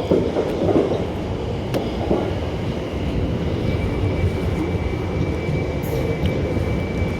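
South Western Railway class 701 electric multiple unit running past at a station, a steady rumble of wheels and train noise. A thin, steady high whine joins about halfway through.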